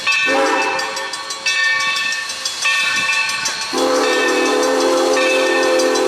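Steam locomotive whistle blowing in several tones: a higher chord sounds on and off, while a deeper chime comes in briefly near the start and then holds a long blast from about four seconds in, with steam hissing.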